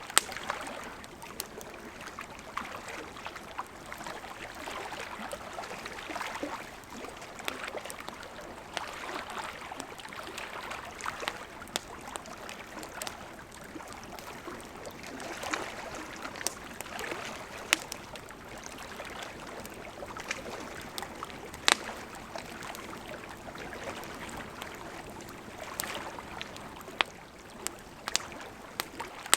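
Campfire crackling with scattered sharp pops, over small lake waves lapping at the shore in swells every few seconds.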